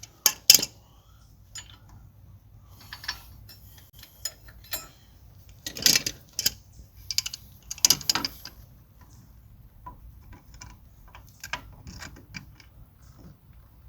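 Irregular metal clicks and clinks of pliers working a hose clamp loose and sliding it along a hose, with louder knocks about half a second, six and eight seconds in.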